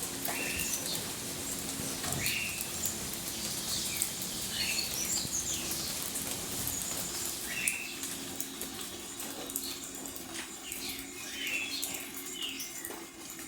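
Aracuã (chachalacas) calling: short, harsh, repeated notes every second or two, over the steady patter of rain.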